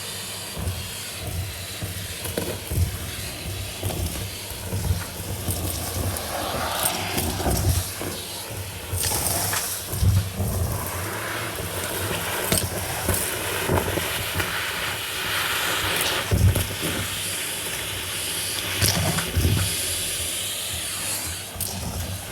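Henry vacuum cleaner running steadily while sucking up dry, gritty dirt, with irregular crackles as debris rattles up the hose.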